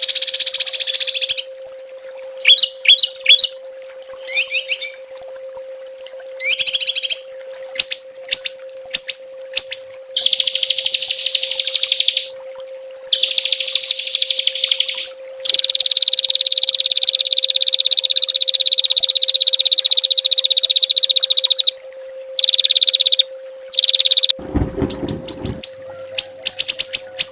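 Small songbirds singing in rapid, sharp trilled bursts and chirps, with one long level whistled note held for about six seconds in the middle. A steady low hum runs underneath, and a brief low thud comes near the end.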